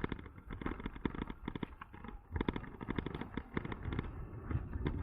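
Electric bike rattling and knocking over a rough, cracked sidewalk: many irregular knocks in quick succession over a steady low rumble.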